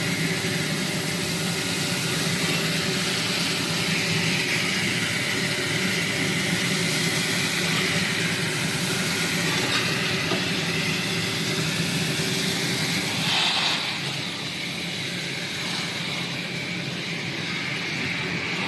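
Welding fume extractor's fan running, a steady rushing hiss over a low hum as it pulls air in through the suction port. About thirteen seconds in there is a brief louder rush, after which it runs a little quieter.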